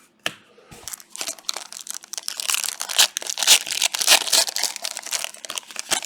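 Panini Prizm soccer card pack wrapper crinkling and tearing as it is ripped open by hand. A dense run of irregular crackles starts about a second in.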